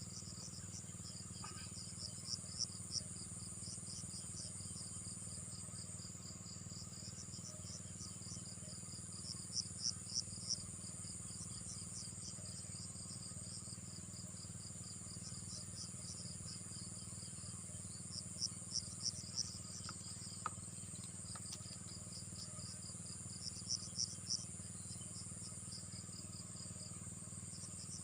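Insects calling: a fast, high pulsed chirping over a steady high-pitched drone, swelling into louder runs of a few chirps four times. A steady low hum runs beneath.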